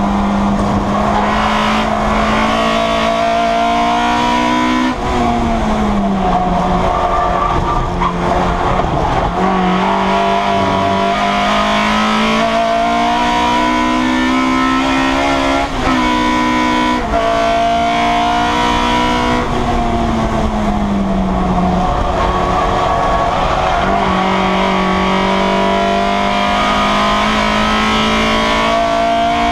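Citroen Saxo race car's engine heard from inside the cockpit under hard acceleration, its note climbing steadily through each gear and dropping sharply at the gear changes, several times; once it falls more slowly as the car slows.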